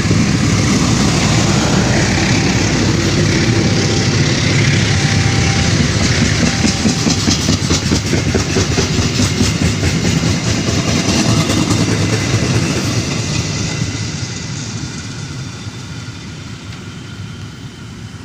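Indonesian passenger train passing close by, its wheels clattering rapidly over the rails, then the sound fading steadily from about two-thirds of the way in as it moves away.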